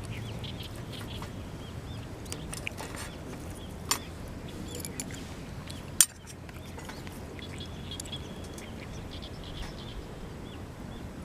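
Outdoor ambience: a steady low rush with small birds chirping on and off, and a few sharp knocks, the loudest about six seconds in.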